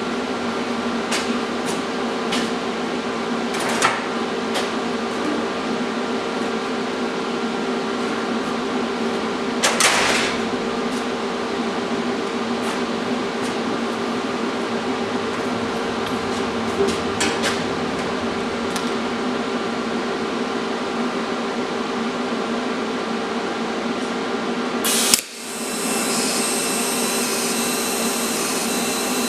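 Electric grinder running steadily while grinding a bandsaw-cut steel bracket clean, with a few brief louder crackles. Near the end it cuts out for a moment and starts again.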